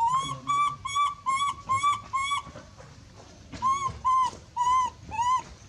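A monkey giving a rapid series of high, arched distress calls, about two a second: six in a row, then after a short pause four more.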